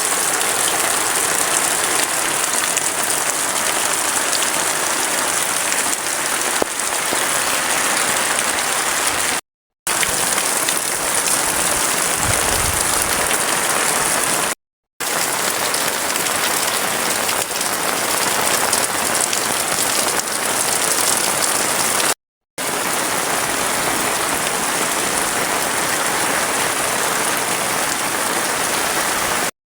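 Heavy rain falling, a steady dense hiss, cut off by three short silent gaps.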